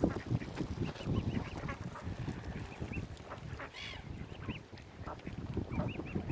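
A mixed flock of waterbirds calling over one another as they are fed: many short, repeated high calls close together, with one louder call near the middle, over a busy low rumble.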